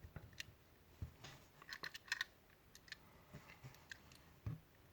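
Faint, irregular clicks and taps of small plastic and metal parts of a Wahl Magic Clip hair clipper being handled as a spring is fitted into the clipper housing, with a small cluster of clicks about two seconds in.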